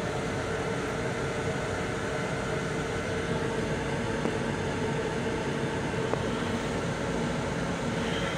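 Steady running noise of an MTA Long Island Rail Road M7 electric railcar heard from inside its enclosed restroom: an even low rumble with a steady hum.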